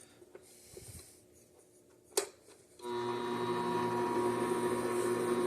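A few small clicks and one sharp click, then nearly three seconds in the Vevor 7x14 mini metal lathe's motor switches on and runs at a steady pitch, a hum with a clear whine.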